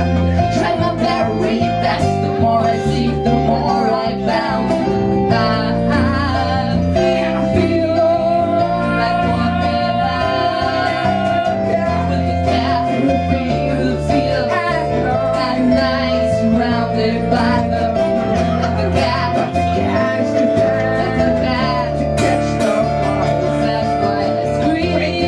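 Live rock-pop band music: an instrumental passage with no sung words, led by guitar over a stepping bass line and regular beats.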